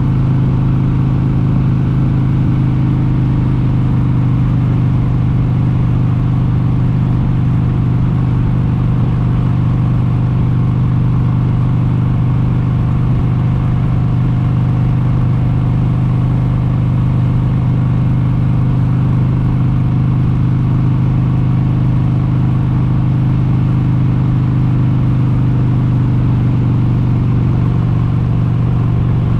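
1996 Harley-Davidson XLH883 Sportster's air-cooled 883 cc Evolution V-twin running under way at a steady cruising speed, its pitch holding level throughout.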